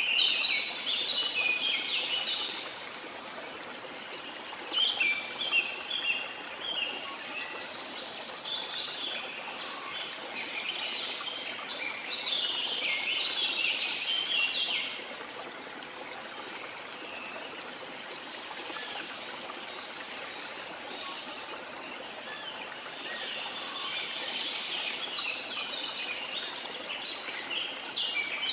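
Songbirds singing in repeated bursts of rapid, high chirping phrases, with pauses between them, over the steady rush of falling water from a waterfall.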